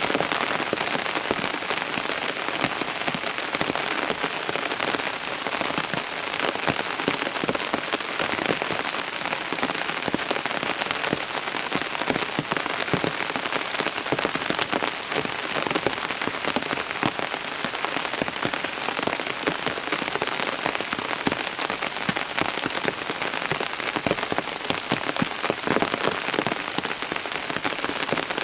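Steady rain falling, a dense, even hiss made of many fine drop strikes that does not let up.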